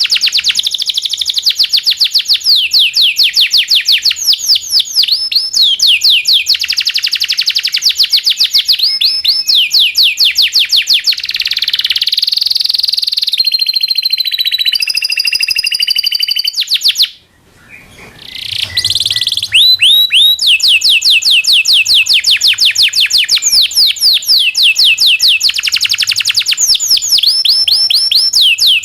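Domestic canary singing: long rolls of fast repeated chirps with downward-sweeping notes, a stretch of held whistled notes in the middle, and a brief break about two-thirds of the way through before the rolls start again.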